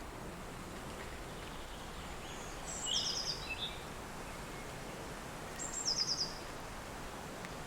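Steady wind noise with a small songbird singing a short phrase of quick high notes, repeated twice: about three seconds in, where a lower chirping call overlaps it, and again near six seconds. The bird phrases are the loudest sounds.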